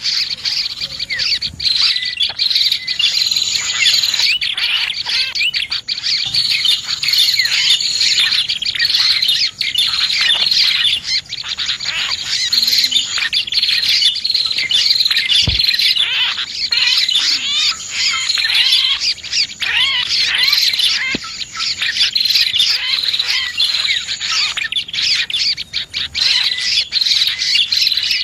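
Bird-lure recording of prinias (prenjak) and other small birds: dense, continuous chirping and twittering from many birds at once. Occasional thin high notes sound above the chatter.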